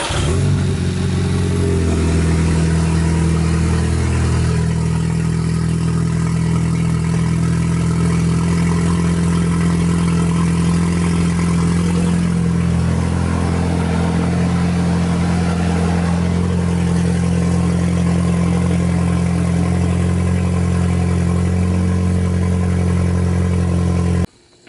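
Car engine freshly fitted with a K04 turbocharger, idling steadily on its first start after the install, then cutting off suddenly near the end.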